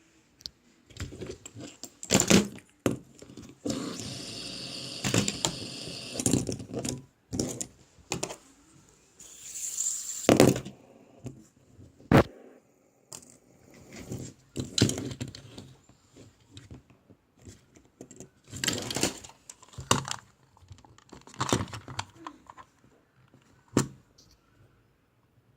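Small plastic toys being handled: irregular clicks, knocks and rattles, with short stretches of rustling or scraping between them.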